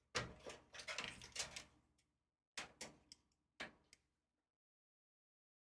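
Clicking and knocking of computer parts being handled inside a PC case, in three short bursts: a longer clatter near the start, then two brief ones around three and four seconds in.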